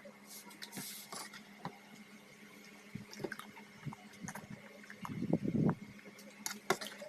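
Wet mouth sounds of eating: scattered smacks and clicks of chewing, with a louder, longer wet sound about five seconds in.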